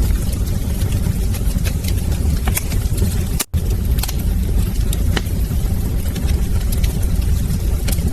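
Wood fire crackling: irregular sharp pops and snaps over a steady low rumble of burning flames. The sound cuts out for an instant about three and a half seconds in.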